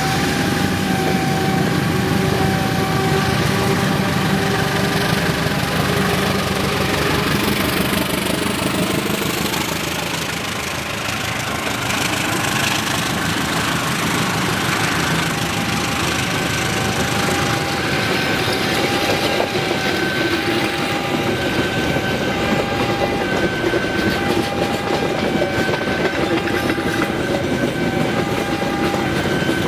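Passenger train hauled by a CC 204 diesel-electric locomotive passing close by: the locomotive's engine drone in the first seconds, then the coaches rolling past with wheels clacking over the rail joints. Through it a warning bell rings in steady repeated pulses, typical of a level-crossing signal.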